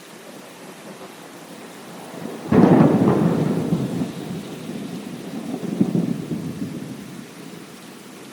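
Thunder over steady rain: a sudden sharp crack about two and a half seconds in, followed by a rolling rumble that swells again near six seconds and fades out, with the rain hissing throughout.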